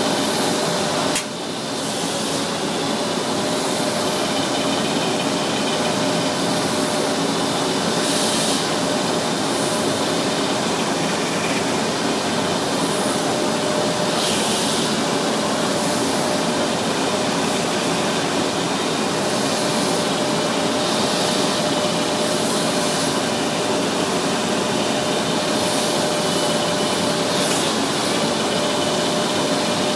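Propeller sanding machine running steadily with a faint steady hum. There is a sharp click about a second in, and brief hissy surges come every few seconds.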